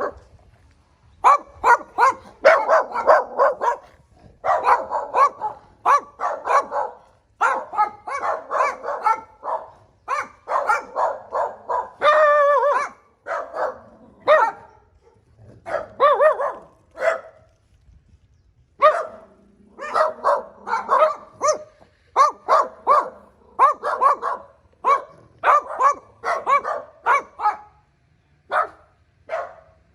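A dog barking in quick runs of several barks separated by short pauses, with one longer drawn-out howling call about twelve seconds in.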